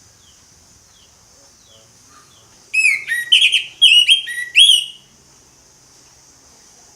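Orange-headed thrush singing: a few faint falling notes, then a loud phrase of quick, clear whistled notes that rise and fall, lasting about two seconds and starting a little before the middle.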